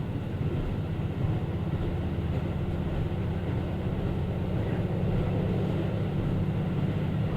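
Diesel local train running along the line, heard from on board: a steady low engine and wheel rumble.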